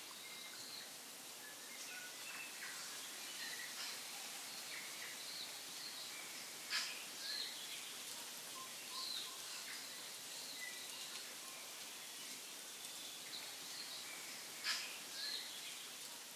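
Faint birdsong: scattered short chirps and whistles over a steady hiss, with two sharp clicks, about seven and fifteen seconds in.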